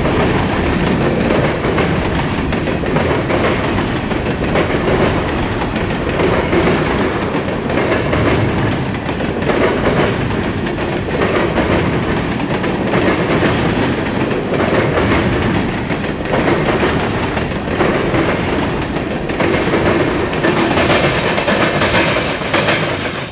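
Freight cars of a mixed freight train rolling past at close range: a steady loud rumble with the clatter of steel wheels over the rails. It drops away suddenly at the very end as the last car passes.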